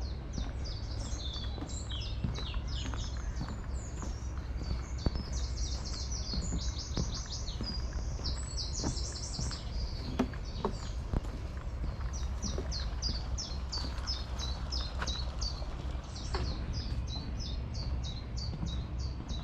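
Songbirds singing throughout, a busy chorus of quick, high, repeated chirps and trills, over a steady low rumble.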